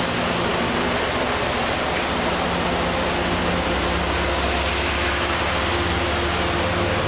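MBTA commuter rail coaches passing close at speed: a steady rush of wheels on rail and moving air, with a low hum that grows stronger about halfway through.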